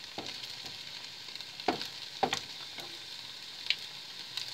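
Eggs frying in oil in a frying pan, a steady sizzle, with a few sharp knocks and scrapes of a slotted spatula against the pan, the loudest two about halfway through.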